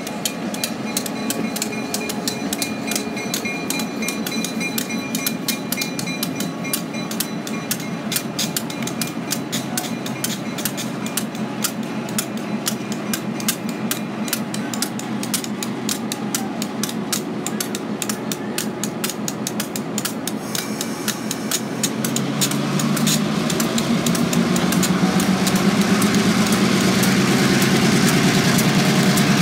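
Freight cars rolling past close by, their steel wheels clicking and clanking rapidly over the rail joints with a thin, steady squeal. About 22 s in, the deep, steady running of the diesel locomotives, GP38-2 #261 and MP15AC #156, grows louder and takes over.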